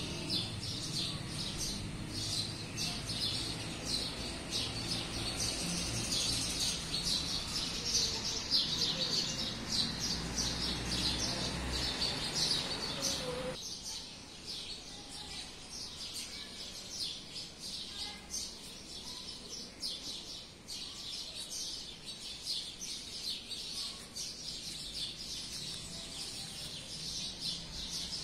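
Birds chirping rapidly and continuously in high, short calls. The lower background noise drops away abruptly about halfway through.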